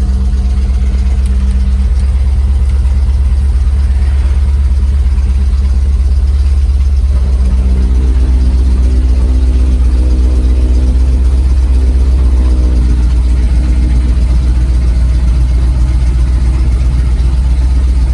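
A 1974 Chevrolet C30 dump truck's 350 small-block V8 with a cam and headers idling steadily while the dump bed is worked. About seven seconds in, a steady whine joins the idle and fades out several seconds later.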